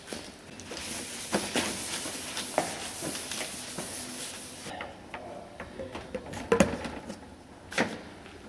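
Workshop handling noises: a steady hiss with light clicks that stops suddenly about halfway through, then scattered clicks and two sharper knocks.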